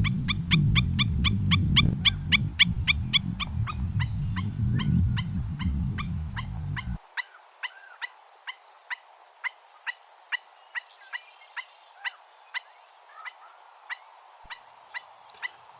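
A bird calling over and over in short, downward-sliding notes, about four a second at first and slowing to about two a second. A low rumble runs underneath for the first seven seconds and then stops abruptly.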